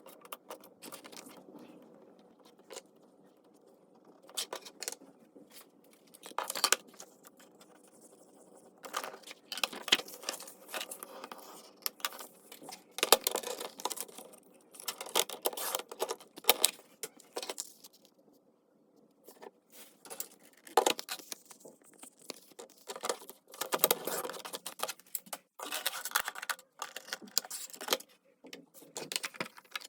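Paper and small craft tools being handled on a desk: irregular rustling, scraping and small clicks and taps, coming in busy bursts with short quiet gaps.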